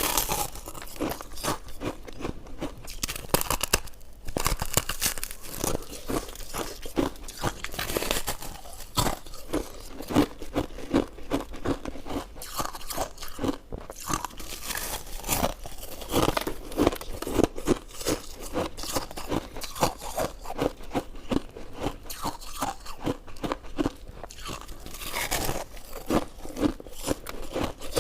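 Close-miked eating: a person biting and chewing, with many small, irregular crunches and crackles throughout.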